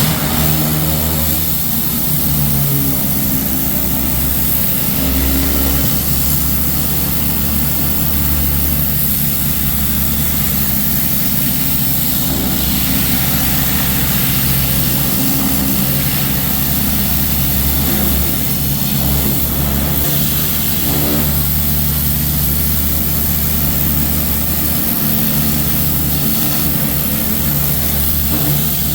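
Engine-driven pressure washer running steadily, with the spray hissing as water is blasted over a truck's body.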